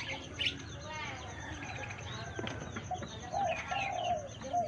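Budgerigars chattering, a fast run of short chirps, squeaks and warbles, with a few longer, lower calls near the end.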